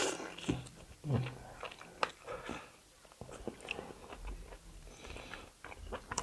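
Close-up eating sounds: a person chewing and biting into kalij pheasant meat on the bone, with many small wet clicks and crunches.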